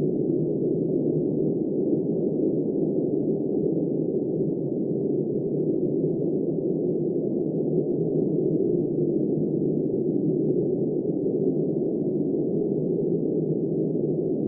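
Steady, muffled wind noise: an even low rush with no high hiss and no gusts or breaks.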